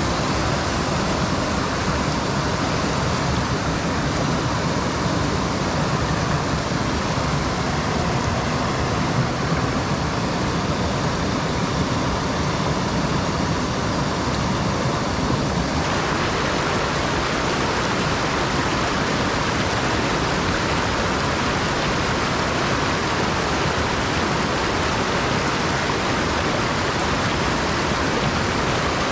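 Mountain stream rushing over rocks, a steady loud rush of water. A little past halfway it suddenly turns brighter and hissier.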